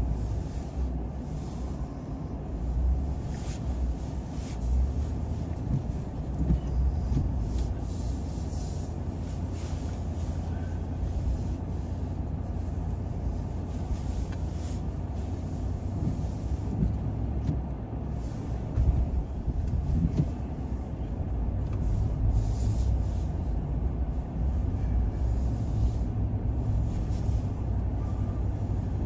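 Car driving along a road: a steady low rumble of engine and tyre noise, with brief high hisses now and then.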